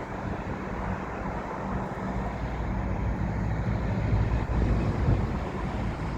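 Diesel rail vehicle's engine running with a steady low drone, growing somewhat louder partway through as it draws nearer, with wind buffeting the microphone.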